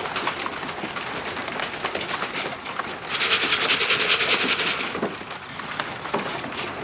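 Racing pigeons' wings flapping in one rapid flurry lasting about a second and a half, as birds come in to land at the loft. Scattered light clicks come before and after it.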